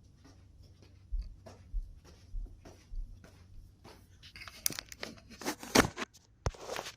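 Plastic clicking and clattering from a 3D-printed spring-powered car, with a few soft low thumps early on and a denser, louder burst of clatter in the second half.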